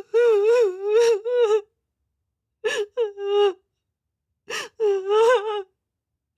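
A person crying: wavering, sobbing wails broken by sharp gasping breaths, in three bouts with short silences between them.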